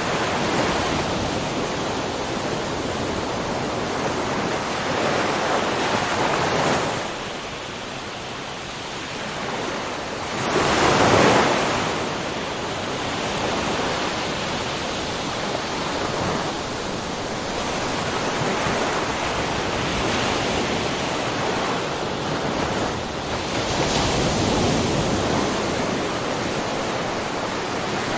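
Ocean waves breaking and washing on a shore, a steady rush of surf that swells and ebbs every few seconds, with one louder wave about eleven seconds in.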